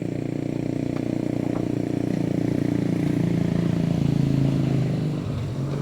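Truck engine running under load, its pitch shifting, growing louder toward about four seconds in and easing off near the end.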